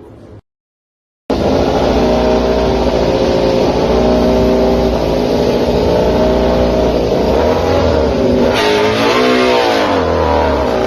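MotoGP racing motorcycle engine running loud at high revs. It cuts in abruptly after about a second of silence, holds a fairly steady note, then its pitch drops and climbs again about nine to ten seconds in.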